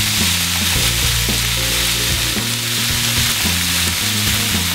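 Diced vegetables sizzling in hot oil in a frying pan, a steady hiss, with background music's bass notes underneath.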